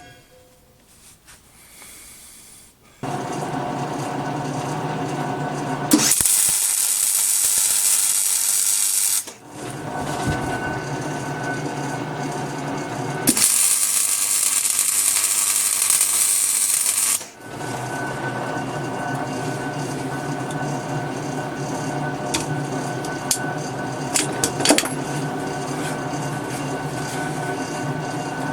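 A power tool's electric motor starts about three seconds in and runs steadily. Twice it bears down on metal, each time for three or four seconds of loud, harsh hiss, as when grinding or cutting steel.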